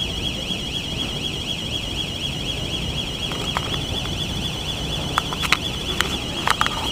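A steady high-pitched warbling tone, like an electronic alarm, runs on without a break, with scattered sharp clicks and knocks over a low rumble.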